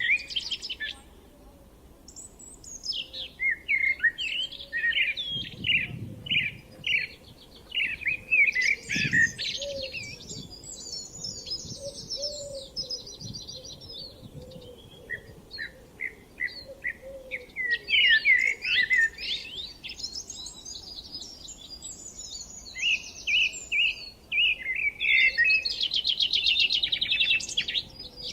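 Several songbirds singing at once: overlapping chirps, fast trills and short whistled notes, nearly continuous apart from a brief lull near the start.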